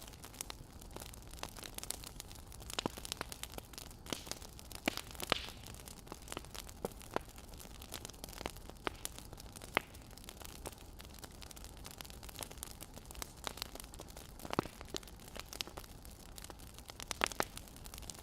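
Wood fire crackling: irregular snaps and pops over a soft, steady hiss.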